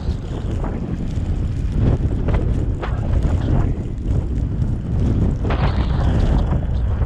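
Car driving through a snowstorm: a steady low rumble of road and engine noise with wind buffeting the microphone.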